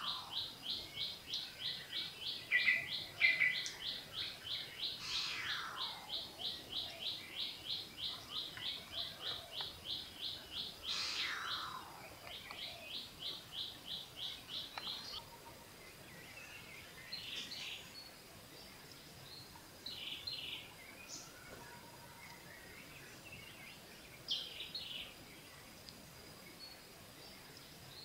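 Forest birds calling in the background. One bird repeats a rapid series of short high notes, about three to four a second, for roughly twelve seconds, then gives a shorter series. A few falling whistled notes and scattered chirps come in between and after.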